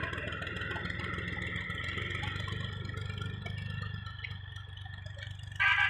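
Tractor engine running steadily with a low hum. Near the end, a brief loud tonal sound, about half a second long, cuts in.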